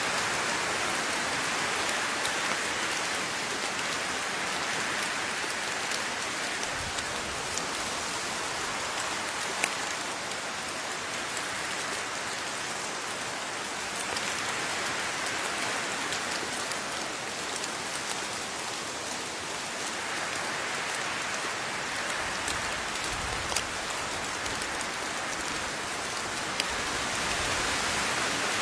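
Steady rain falling on a surface, a continuous hiss with individual drops ticking through it, swelling and easing slightly every several seconds.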